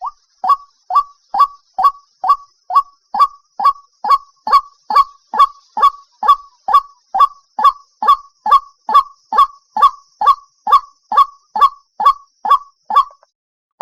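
White-breasted waterhen calling: one short, sharp note repeated steadily a little over twice a second, with a brief break near the end.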